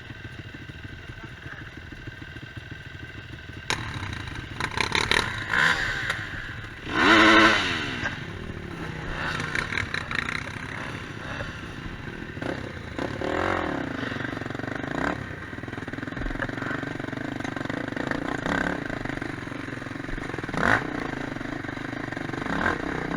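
Quad bike engines running and revving, with clattering. The sound gets louder suddenly about four seconds in, and the loudest rev comes about seven seconds in.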